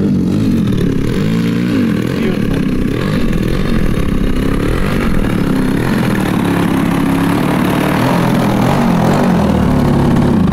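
100cc gas engine of a giant-scale RC aerobatic airplane running, its pitch repeatedly rising and falling as the throttle is worked through 3D manoeuvres.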